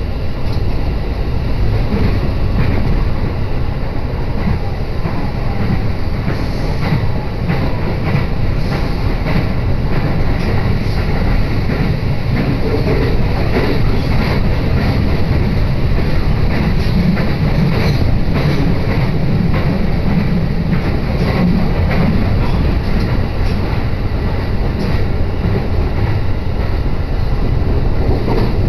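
Passenger train running at speed, heard from inside the carriage: a steady rumble of wheels and running gear with faint clicks through it.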